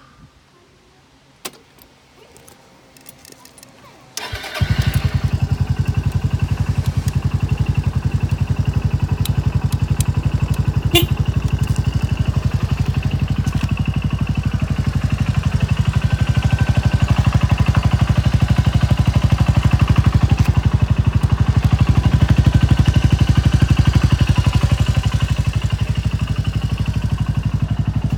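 Suzuki Skywave 250 SS scooter's single-cylinder four-stroke engine being started. After a few faint clicks, it turns over about four seconds in, catches at once, and then idles steadily with an even pulsing beat.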